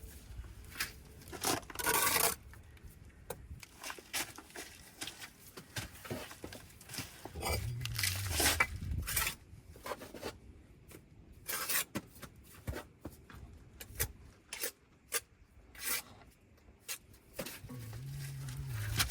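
A bricklayer's steel trowel scraping and spreading mortar against brick, with scattered sharp taps and clicks as a brick is bedded into the wall. There are several longer scrapes, the loudest about two seconds in.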